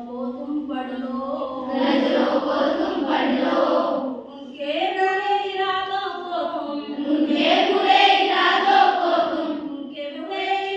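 A group of children singing a Hindi-Rajasthani song together in unison, in drawn-out phrases with long held notes.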